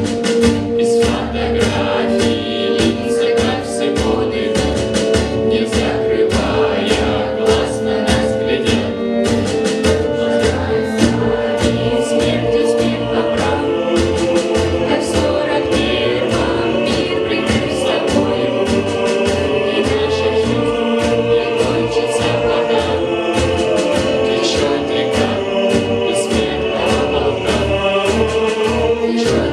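A choir singing a song together with instrumental accompaniment and a steady beat.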